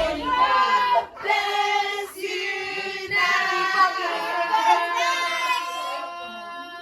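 A group of people singing together without instruments, in phrases broken by short pauses.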